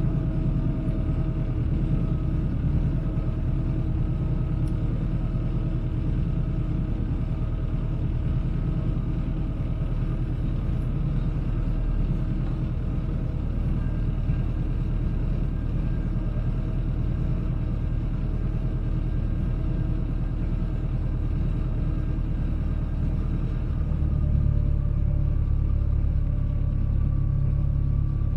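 Boat engine running steadily under way, heard from on board as a constant low rumble with a faint steady hum. The rumble grows a little louder about three quarters of the way through.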